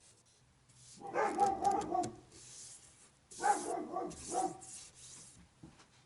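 Dog barking in two quick runs of several barks, the first about a second in and the second about three and a half seconds in, over a steady low hum.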